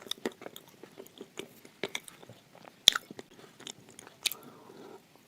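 Hard red clay (khawa) being bitten and chewed close to the microphone: irregular crisp crunches, with one sharp crack about three seconds in.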